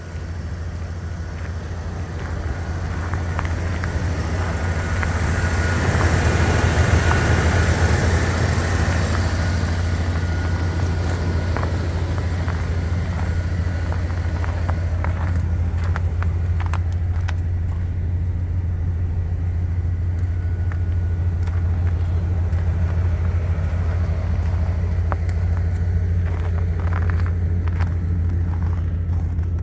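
A 1996 Ford F-350's 7.5-litre gasoline V8 idling with a steady low hum. It swells louder for a few seconds about a quarter of the way in, then settles.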